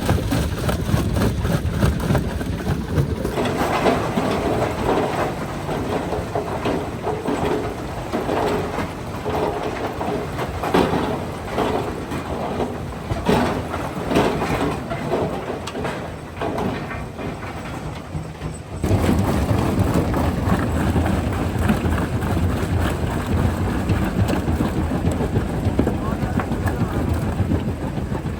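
Jaw crusher running with a heavy low rumble and irregular clatter as rock is broken. The sound changes abruptly twice, about three seconds in and near the two-thirds mark, with the rumble weaker and voices heard in the middle stretch.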